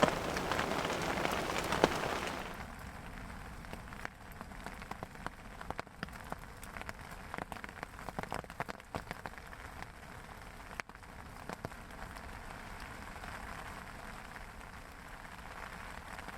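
Heavy rain pattering, with many individual drops ticking sharply; louder for the first two and a half seconds, then it settles to a softer patter.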